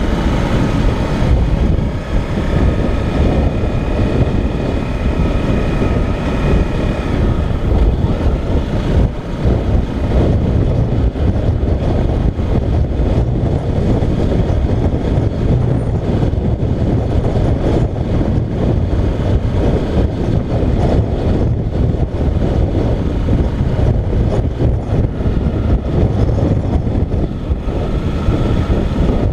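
Motorcycle riding along: the engine runs steadily under way, mixed with a dense low rumble of wind and road noise on the camera's microphone.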